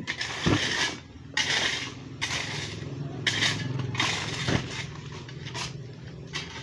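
Shovel scraping and crunching through a cement mix in about five or six separate strokes, over a steady low hum.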